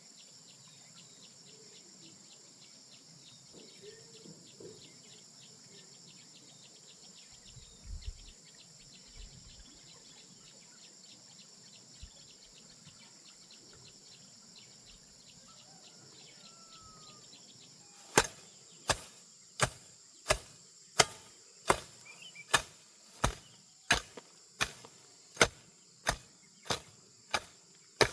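Insects chirring steadily, then, about two-thirds of the way in, a blade starts chopping wood in an even rhythm of about three strikes every two seconds, each strike sharp and much louder than the background.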